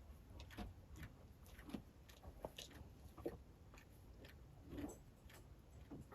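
Near silence: quiet room tone with faint, scattered clicks and soft knocks at irregular intervals.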